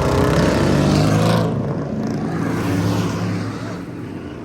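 A car engine revving, then dropping in pitch and fading about a second and a half in, running on more quietly and fading further near the end.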